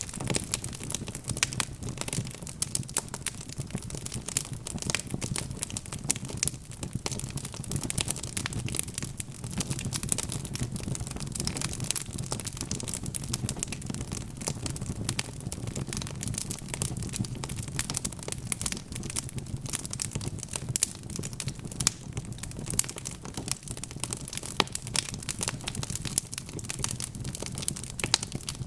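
Wood fire crackling, with frequent sharp irregular pops and snaps over a low steady rumble of the burning logs.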